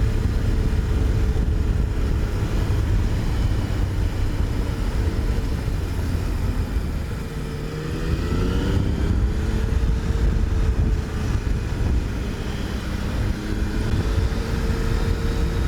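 Yamaha FJ-09 motorcycle's inline-three engine running while being ridden, with heavy wind rumble on the microphone. About halfway through the engine note dips, then its pitch rises as the bike speeds up again.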